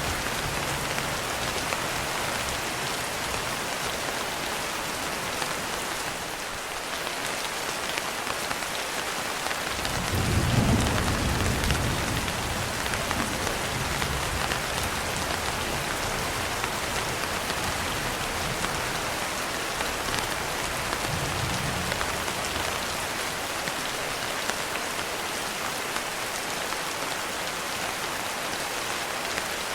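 Steady rain falling, with a rumble of thunder about ten seconds in, the loudest moment, and weaker rumbles following for several seconds.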